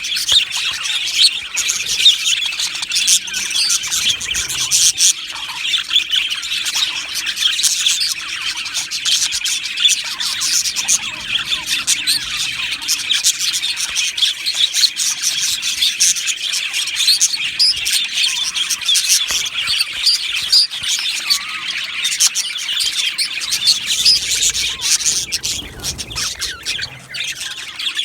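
Many budgerigars chattering and chirping at once in a dense, unbroken warble of overlapping calls.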